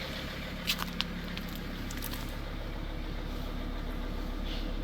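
2006 Dodge Sprinter 2500's five-cylinder turbodiesel idling steadily after a cold start, with a couple of short sharp clicks about a second in.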